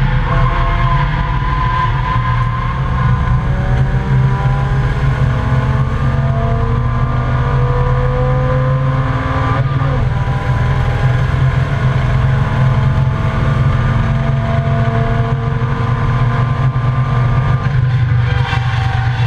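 Volvo 855 race car's inline five-cylinder engine heard from inside the cabin under hard acceleration, its note rising slowly as it pulls through the revs over a steady low road and cabin drone. The note breaks briefly about ten seconds in, then climbs again.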